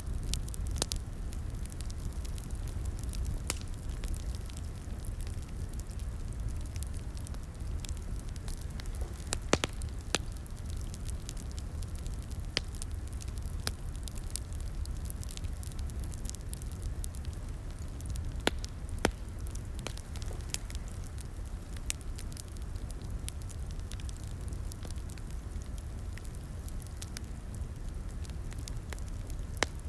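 Crackling fireplace: a steady low rumble of burning wood with irregular sharp pops and crackles, a few louder snaps scattered through.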